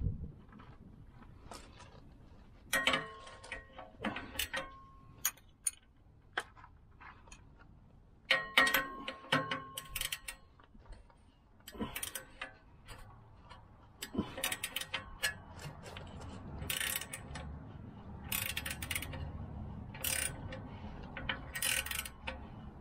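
Hand tools working on rusted exhaust hardware: a ratchet clicking in short spells, with metal clinks that ring briefly, as clamp and hanger bolts on a truck's exhaust flex pipe are worked loose.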